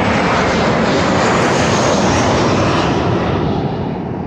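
Jet airliner passing low overhead, a loud steady rush of engine noise with a faint high whine, easing off near the end.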